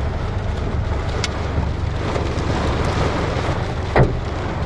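Heavy rain mixed with hail pelting a car's roof and windscreen, heard from inside the cabin over a steady low rumble from the car. One sharp knock stands out about four seconds in.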